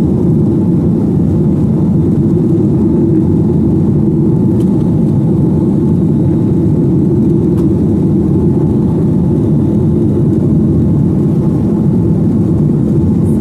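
Steady cabin noise of a Boeing 737-900ER in flight: the low, even hum of its CFM56-7B engines and the rush of air, heard from inside the cabin.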